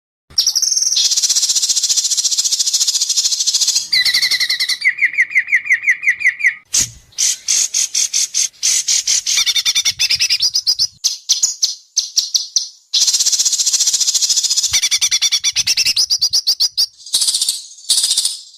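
White-rumped shama (murai batu) singing a loud, fast, varied song: long runs of rapid, high, sharp notes, broken about four seconds in by a slower string of lower repeated notes before the high runs return.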